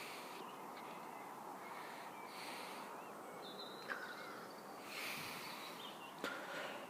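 Quiet outdoor background with a few faint, short bird calls a couple of seconds apart, and a couple of small clicks.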